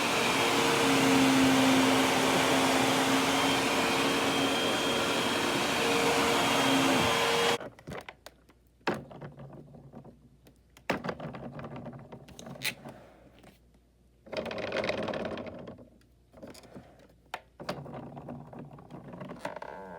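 Hoover WindTunnel 2 upright vacuum cleaner running with a steady hum, then switched off abruptly about seven and a half seconds in; after that, scattered clicks and knocks of the machine being handled. The owner finds the vacuum clogged and not picking up dirt.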